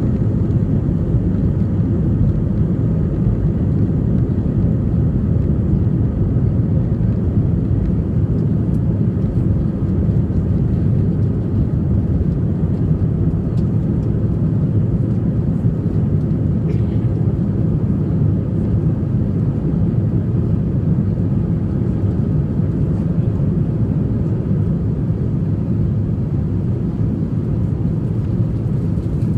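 Jet airliner cabin noise during takeoff: a steady low rumble of engines and airflow that holds at an even level.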